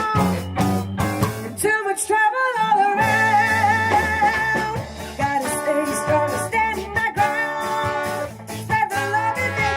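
Ska band playing live: bass and guitar under held melodic lines and singing.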